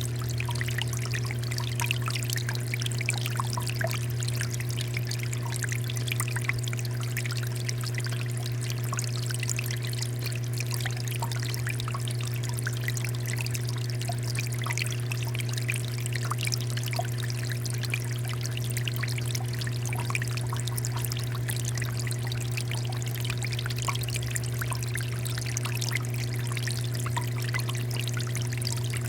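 Water fountain flowing and splashing steadily, with many small drips and trickles, over a steady low hum.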